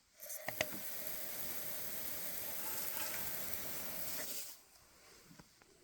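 A burst of spraying water: a steady hiss that starts suddenly with a couple of clicks, runs for about four seconds and cuts off. It is an improvised sprinkler turned on to drive a skunk away from a chicken coop.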